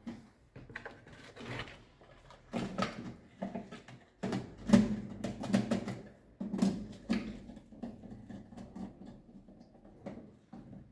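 Miniature circuit breakers being handled and set down by hand, a run of irregular plastic clicks and knocks with rustling between them.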